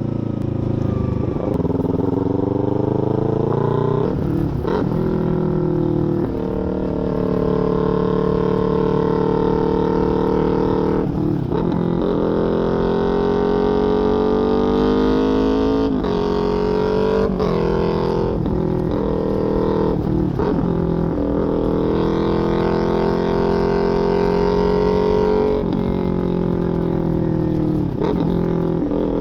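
Parallel-twin sport motorcycle with an aftermarket full exhaust system running under load. The revs climb and then drop sharply several times, as with gear changes while accelerating.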